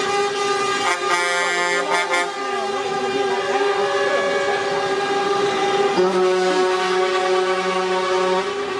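Several lorry air horns sounding at once in long, overlapping held blasts. A higher horn joins for about a second a second in, and a deeper one comes in about six seconds in.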